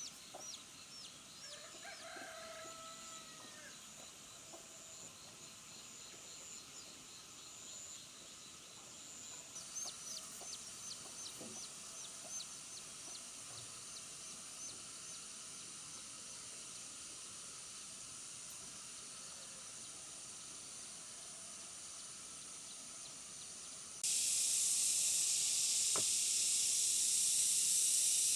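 Chickens clucking, with rows of short high chirps from small birds over a faint steady hiss. About 24 seconds in, a much louder steady hiss cuts in suddenly and becomes the loudest sound.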